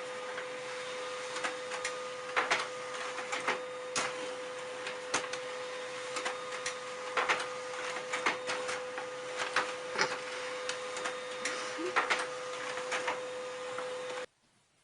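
A steady mechanical hum with many irregular clicks and taps over it, cutting off abruptly near the end.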